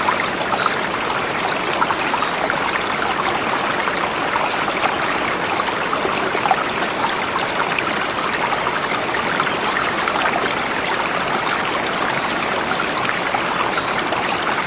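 Forest river flowing over rocks: a steady rushing and babbling of water.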